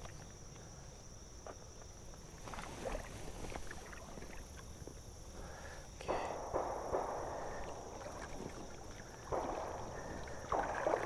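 Creek water splashing and swishing around the legs of someone wading, in several surges that start suddenly and fade over a second or two.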